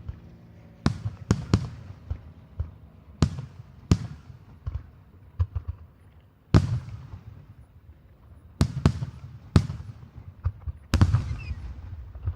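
Aerial fireworks shells bursting, a dozen or so sharp bangs at irregular intervals, each trailing off in a rumbling echo, with a cluster of the loudest near the end.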